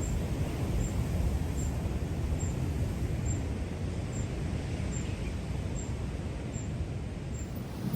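Steady low rumble of ocean surf and swell, with a faint high tick repeating a little more than once a second.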